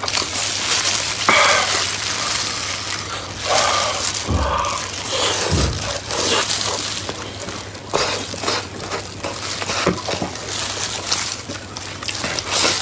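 Close-miked chewing and mouth sounds of a person eating warm, gooey chocolate lava cake: irregular sticky smacks and clicks, with two low thumps near the middle.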